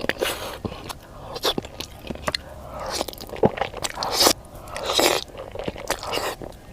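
Close-miked eating: repeated bites and crunching chewing, with a few longer, hissy mouth sounds.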